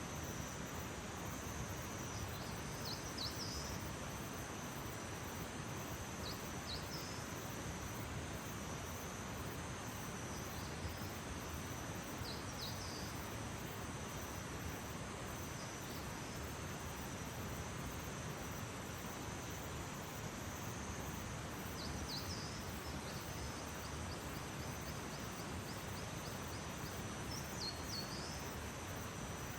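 Early-morning outdoor ambience: insects trilling steadily at a high pitch over a constant soft hiss, with short bird chirps every few seconds.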